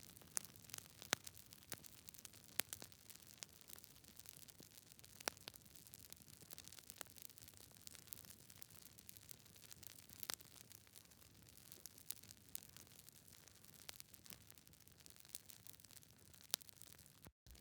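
Wood fire crackling: irregular sharp pops and snaps, several a second, over a soft steady hiss. The sound cuts out for a split second just before the end.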